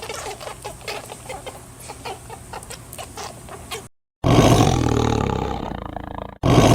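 An animal-sound recording: a run of short, quickly repeated animal calls for about four seconds, then, after a brief break, a loud deep roar that fades over about two seconds, and a second roar that starts near the end.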